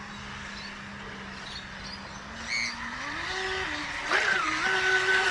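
Electric RC jet boat's motor and jet pump whining steadily, then rising in pitch in two steps, about three and four seconds in, as the throttle opens, and getting louder toward the end.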